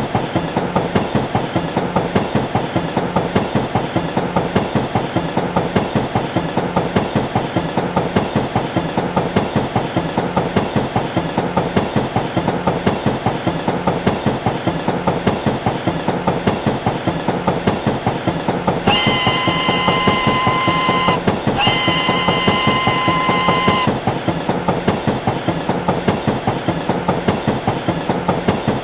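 Train wheels clicking over rail joints in a steady, rapid rhythm. About two-thirds of the way through, the train's horn sounds two blasts of about two seconds each, with a short break between them.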